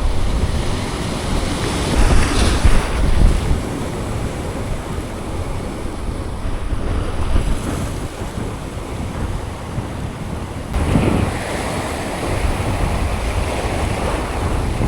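Wind buffeting the microphone over the steady wash of sea surf, gusting harder about two seconds in and again near eleven seconds.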